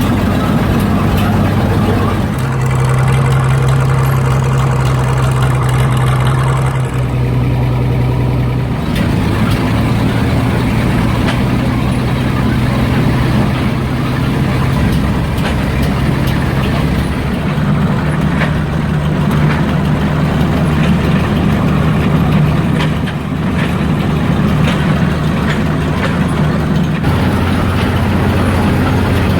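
Gasoline engine of a 1934 Lombard tractor running while it is driven, with a steady loud note that shifts up and down in pitch several times as the engine speed changes.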